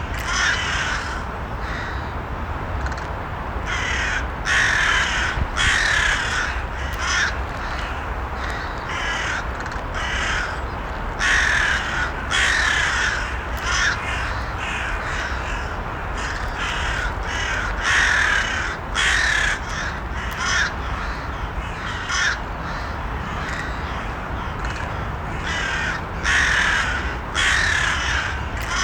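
Crows cawing, harsh calls repeated in short runs every second or so, over a steady low rumble.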